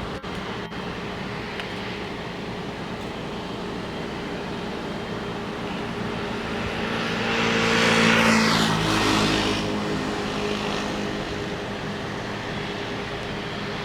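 Boeing 777-300 airliner's jet engines passing by. A steady engine hum swells to its loudest about eight seconds in, with a falling whine as it goes past, then fades back down.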